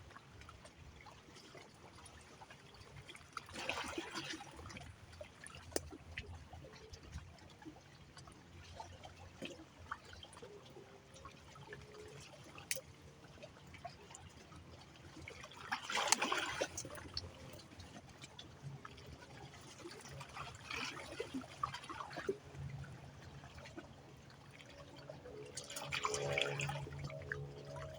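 Water trickling and lapping at the edge of a river inlet, with four louder splashes or surges spread through the stretch. A faint low hum runs underneath, and a steady tonal hum joins near the end.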